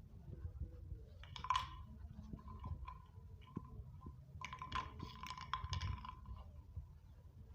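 Small bottle being batted and rolled across a hard surface by a cat: scattered clicks and scrapes, with a denser clatter about a second and a half in and again from about four and a half to six seconds in.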